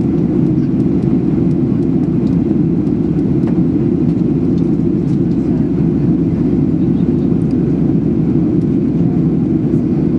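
Steady cabin roar of a Boeing 737-800 in flight, its CFM56 jet engines and the airflow over the fuselage heard from inside the cabin as a deep, even rumble.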